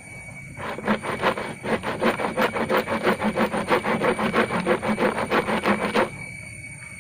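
A saw cutting through a stem of yellow bamboo with quick, even back-and-forth strokes. It stops about six seconds in.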